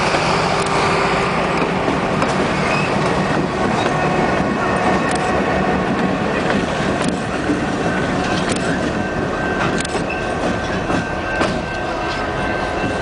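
A diesel-hauled train passing close by: a steady heavy rumble with sharp wheel clicks every second or two and a faint squeal from the wheels.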